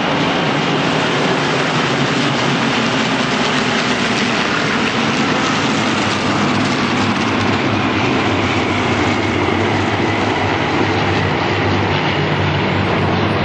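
The massed piston engines of a large formation of Second World War fighters (P-51 Mustangs, Spitfires, Hurricanes, Corsairs and others) flying by together: a loud, steady drone whose pitch shifts slowly.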